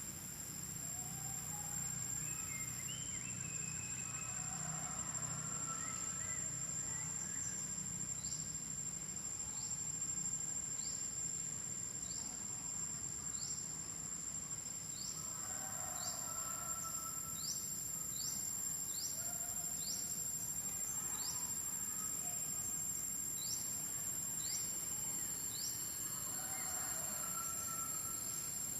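Outdoor insect chorus: a steady high-pitched insect trill, with a short rising chirp repeating about once a second, and softer calls that come and go underneath.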